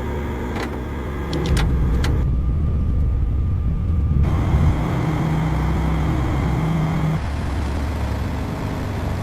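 A motor vehicle engine running steadily. The low rumble grows louder about a second and a half in and eases back a little near the end, with a few sharp clicks in the first two seconds.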